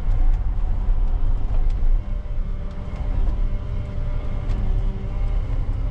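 Heavy work-vehicle engine running steadily with a low rumble and a few faint ticks.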